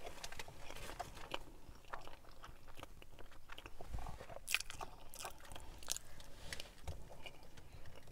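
A person chewing a mouthful of chicken burrito with the mouth closed: irregular soft wet clicks and smacks, the sharpest about four and a half seconds in.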